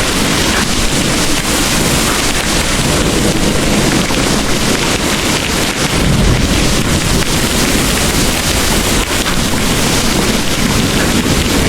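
Heavy rain pouring steadily, a dense even hiss, under a low rumble of distant thunder that swells from about halfway through.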